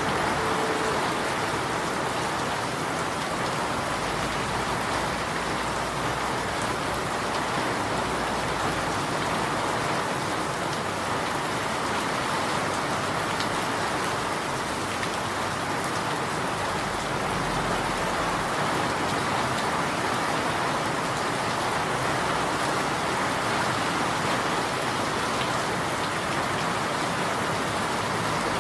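Rain falling steadily, an even hiss with fine patter of drops on surfaces.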